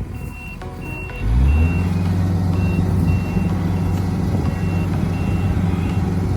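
Short repeated high-pitched beeps from a Yanmar GC447V combine harvester's warning beeper. About a second in, the machine's diesel engine catches, rises briefly and settles into a steady run while the beeping continues.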